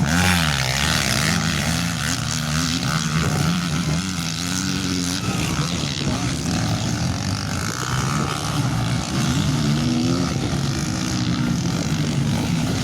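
Motocross motorcycle engines revving, the pitch rising and falling as the riders work the throttle.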